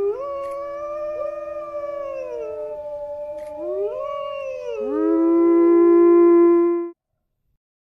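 A pack of wolves howling together: several long, overlapping howls at different pitches, gliding slowly up and down. The howls cut off suddenly about seven seconds in.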